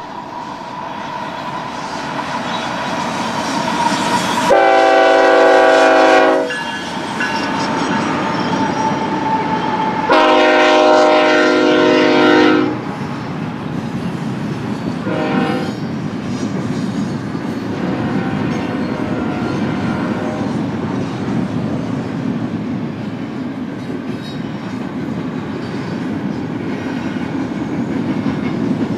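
BNSF intermodal freight train approaching and passing, its locomotive air horn sounding two long blasts and then a short one over the train's steady rumble and wheel clatter.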